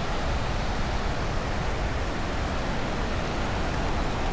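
Steady rushing beach noise of wind and surf, with wind buffeting the microphone.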